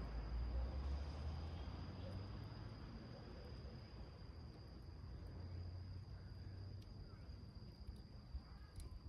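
Small wood fire burning in a metal milk-can stove, with a few sharp crackles near the end over a low rumble. Behind it runs a steady high insect trill.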